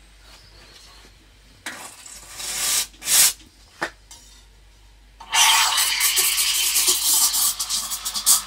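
Coffee machine's steam wand hissing loudly and unevenly as it froths milk, starting about five seconds in, after a few short bursts of hiss.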